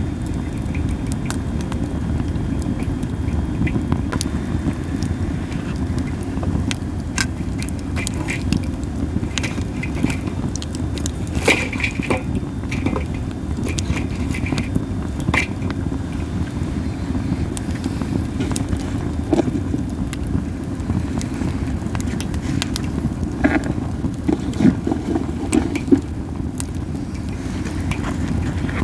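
Campfire of burning Japanese spindle (masaki) wood: scattered sharp crackles and pops over a steady low rumble, with a few louder pops about a third of the way in and again near the end. A few short high hisses come around the middle.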